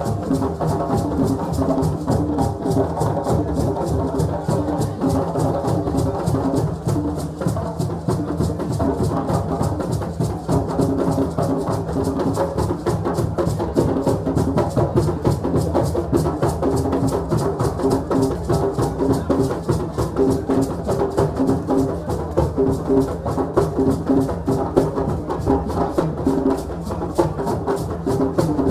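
West African drum ensemble playing a fast, dense, steady rhythm.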